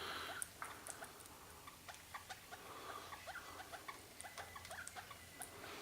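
Eastern rosellas cracking and nibbling seed at a bird feeder: faint, irregular small clicks and crackles.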